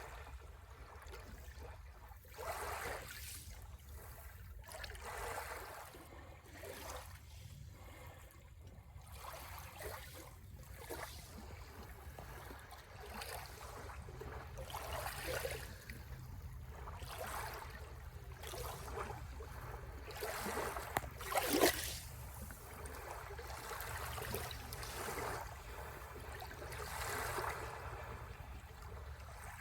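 Sea waves washing in on the shore one after another every few seconds, over a steady low rumble. One wave lands with a sharper splash about two-thirds of the way through.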